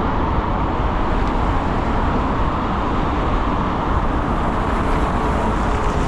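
Steady rush of wind and road noise from riding an electric scooter in city traffic.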